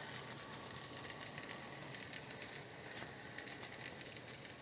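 OO gauge model trains running on the track, a faint steady whirr with light irregular ticking of wheels over the rails.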